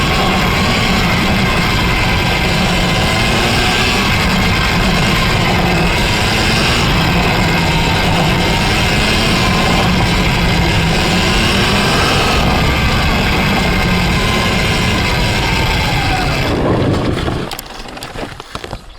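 Surron Ultra Bee electric dirt bike with a TORP TM50 Pro motor riding hard: the motor's whine rises and falls with the throttle over loud, dense drivetrain and riding noise. About seventeen seconds in the whine falls away and the noise drops sharply, leaving scattered clicks and knocks.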